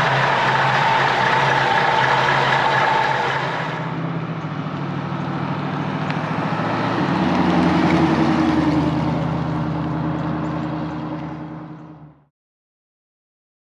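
A car engine running steadily at idle, swelling slightly around the middle, then fading out to silence about twelve seconds in.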